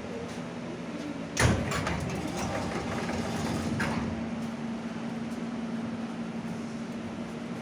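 Pneumatic sliding doors of a stopped 81-717 'Nomernoy' metro car banging open with a sharp knock about a second and a half in. The standing car then hums steadily.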